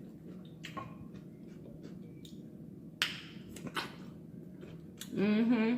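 Scattered small clicks and cracks of snow crab leg shells being broken and eaten, with a short wavering voice-like sound near the end.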